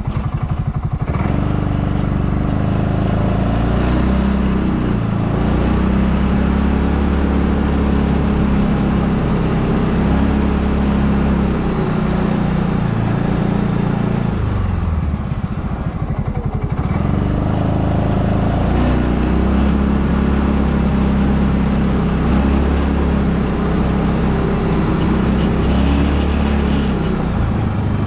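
Small gasoline engine running under load while clearing a trail through deep snow, its speed dropping and picking up again every few seconds.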